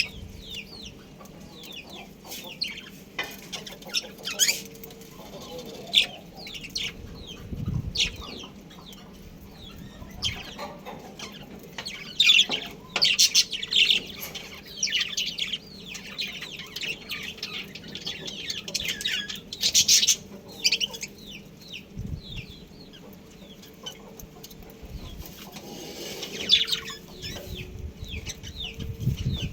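Budgerigars chirping and chattering: many short high chirps throughout, thickening into dense chatter in a few stretches.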